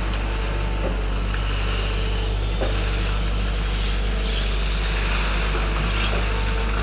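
Hydraulic excavator's diesel engine running steadily under load with a constant low drone.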